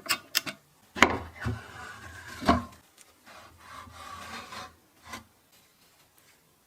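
Hand work on drill-press parts: several sharp knocks, and two stretches of scraping or rubbing of about a second and a half each.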